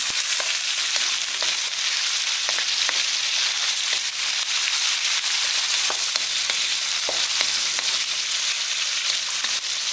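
Shrimp, sliced pork and garlic sizzling in hot oil in a wok, with a steady loud hiss. A spatula stirring them scrapes and taps against the pan now and then.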